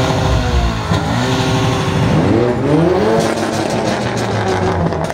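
Car engine revving: it climbs in pitch twice, the larger climb about two to three seconds in, with steady running between.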